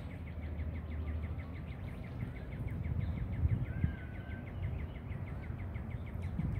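Birds singing: a fast run of repeated chirps for the first four seconds or so, with a few short whistled notes over it, against a steady low rumble.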